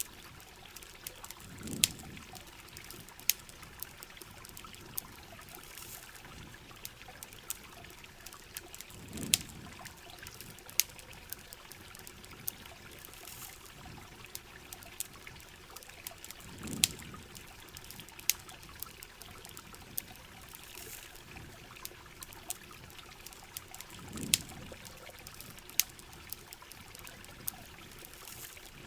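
Steady rain and running water, with the sharp crackles and pops of a campfire. A low swell rises and fades about every seven and a half seconds.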